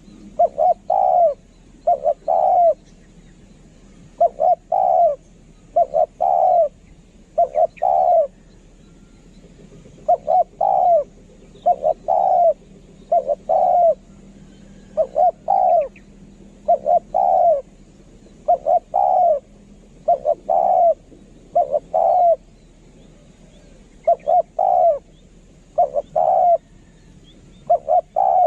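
Spotted dove cooing: short low calls in quick groups of two or three, repeated steadily throughout, a decoy call used to draw other spotted doves in.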